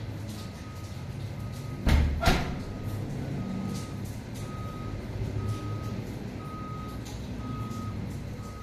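A truck's reversing beeper sounding about once a second over a low engine rumble, with two loud knocks about two seconds in.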